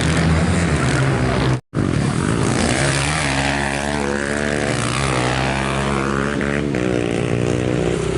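Motorcycle engines at a racing practice session running and revving up and down, with a brief dropout in the audio just under two seconds in.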